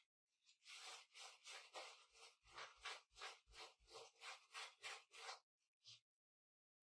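Faint quick rubbing strokes, about three a second, stopping about five seconds in: a napkin wiping up spilled pizza sauce and cheese.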